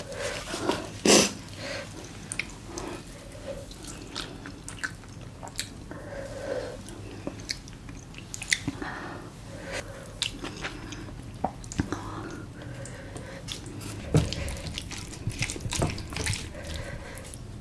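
Close-miked eating sounds: wet chewing and small mouth clicks as spicy braised monkfish and bean sprouts are eaten. A short, loud burst of noise comes about a second in, and a run of knocks and scrapes from a wooden spoon in a wooden rice bowl comes near the end.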